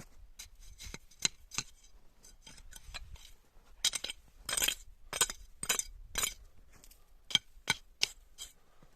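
A run of about a dozen irregular sharp clinks and taps of hard objects knocking together, loudest and most frequent in the middle of the stretch.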